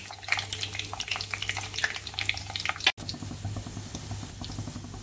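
Roasted gram, peanuts, flax seeds, cashews and raisins frying in oil in a steel kadai, sizzling with many quick crackling pops. The sound cuts out for an instant about three seconds in, then goes on as a quieter, even sizzle.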